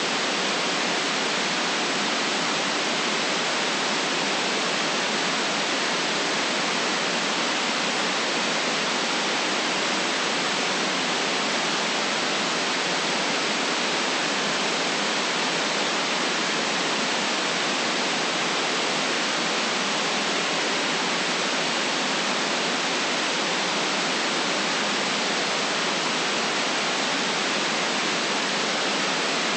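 Steady, unchanging white noise: an even hiss with no deep bass, holding one level throughout.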